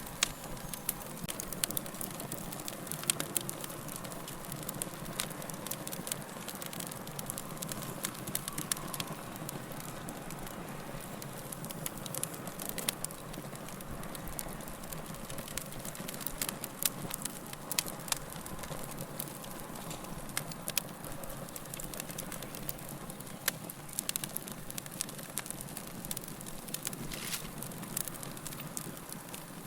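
Wood fire burning in a fireplace: a steady low hiss with irregular sharp crackles and pops from the burning logs throughout.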